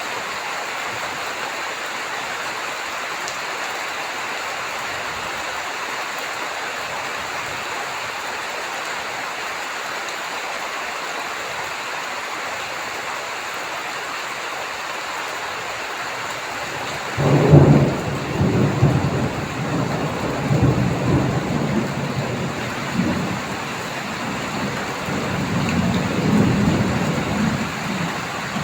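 Steady heavy rain, and about two-thirds of the way in a sudden crack of thunder that rumbles on in rolling waves to near the end.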